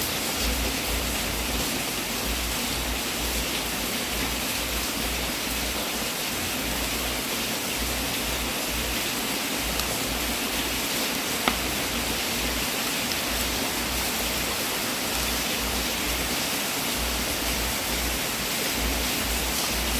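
Wood fire in a fireplace, burning with a steady hiss and a few faint crackles, and one sharp pop about eleven seconds in.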